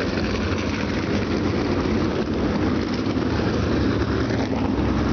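Many USAC Silver Crown race cars' alcohol-fuelled engines running together as one steady, dense drone.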